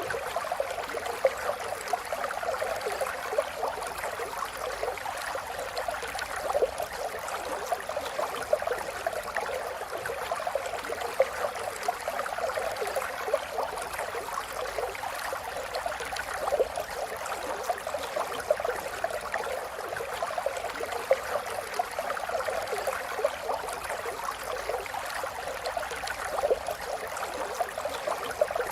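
River water flowing steadily, an even rushing sound full of small splashes and gurgles.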